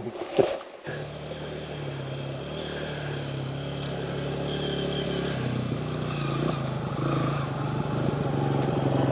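Four-stroke dirt bike engine catching about a second in after a few knocks, then running steadily at low revs and growing gradually louder.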